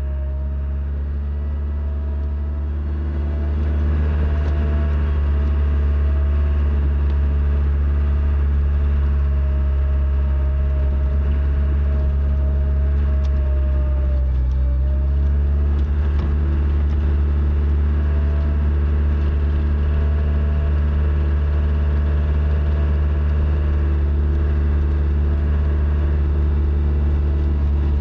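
Skid steer loader's engine running steadily as it plows snow, with a thin whine above it. It gets louder about three seconds in and shifts pitch about halfway through.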